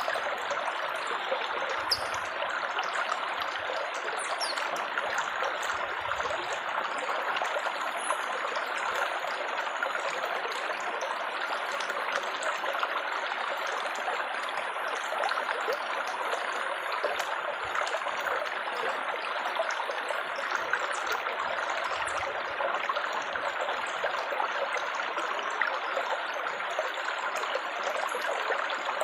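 Running water trickling and babbling steadily, the even splashing of a small stream or water flow.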